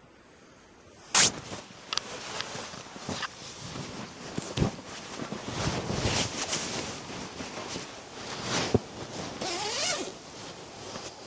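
A zipper being pulled in several rasping strokes amid rustling of fabric, after a sharp knock about a second in.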